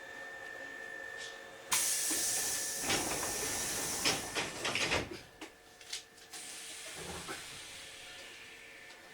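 Hankyu 3300 series train car's pneumatic door gear venting compressed air in a sudden loud hiss as the doors open at a station stop, lasting about three seconds and ending in a few knocks. Before it, a faint steady hum from the stopped car's equipment.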